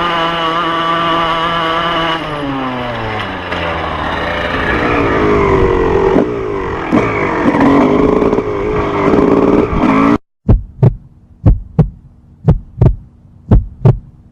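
A quad bike or motorcycle engine runs at steady high revs, then slows with a falling pitch and runs unevenly. About ten seconds in the engine sound cuts off abruptly and a heartbeat-like double thump follows, about one pair a second.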